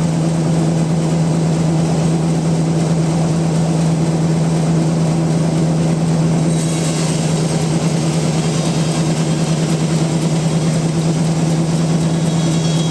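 Bandsaw sawmill machinery running with a loud, steady hum; about halfway through a high hiss joins in and stays.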